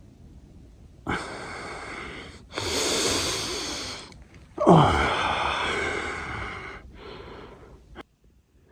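A person breathing hard: a series of loud breaths, each about a second or a second and a half long, with sharp starts and stops. The loudest comes about halfway through.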